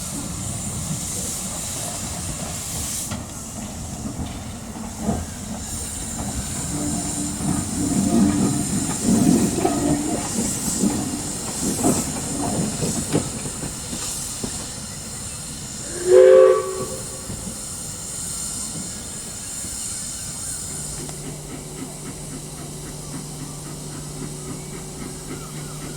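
Steam locomotive hissing steadily as steam escapes, with a louder, uneven stretch midway. About two-thirds of the way in comes a single short, sharp blast on the steam whistle, and a steady low hum sets in near the end.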